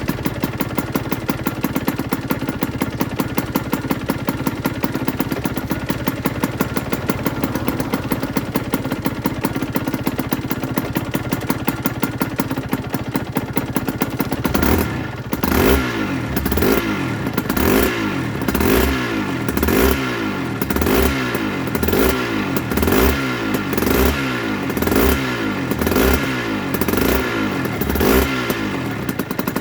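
2008 Aprilia RS125's single-cylinder two-stroke engine idling steadily for about the first half. It is then blipped over and over, about one rev a second, each rising and falling quickly.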